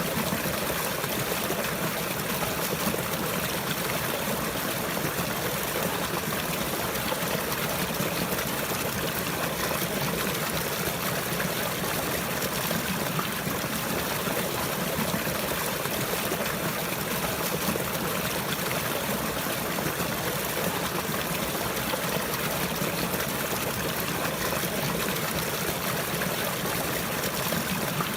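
Running water: a steady stream trickling and flowing without a break.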